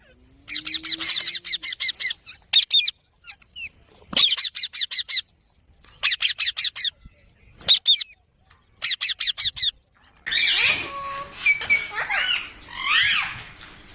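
Rose-ringed parakeets (Indian ringnecks) screeching in six short bursts of rapid, sharp repeated calls, a second or two apart. In the last few seconds the calls turn into lower, wavering, gliding chatter.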